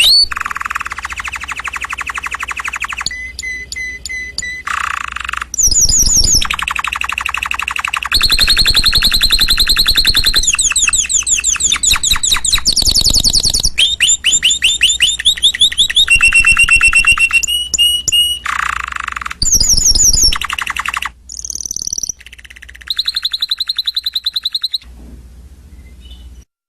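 Domestic canary singing a long song of rapid trills, each a fast run of repeated notes, switching to a new pitch every second or two. It stops suddenly near the end.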